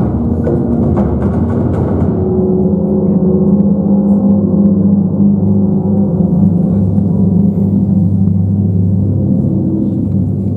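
Live stage percussion: a few struck hits in the first two seconds, then a sustained low ringing drone that holds steady.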